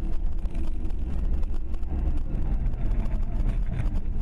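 Steady low rumble of a moving car's engine and road noise, as picked up by a dash-cam microphone.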